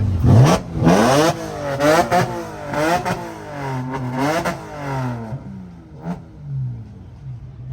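Exotic sports car engine with a titanium exhaust revved in about six quick blips, each rising and falling in pitch, then settling back to idle, with one short sharp crack about six seconds in.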